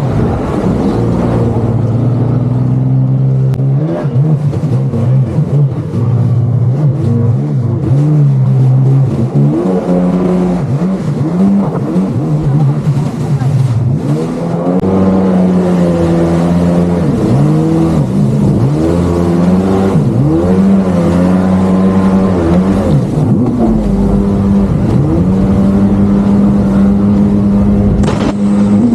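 Jet ski engine running at speed, its pitch rising and dipping again and again as the throttle is worked over the waves, settling on a steady higher note near the end.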